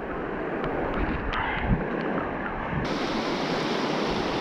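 Steady rush of flowing floodwater in a runoff drain; the hiss turns suddenly brighter about three seconds in.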